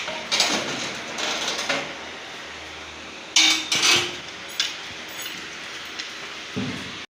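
Metal cooking pots and utensils clanking and scraping in a series of knocks, the loudest two close together about halfway through, over a steady background hum; the sound cuts off just before the end.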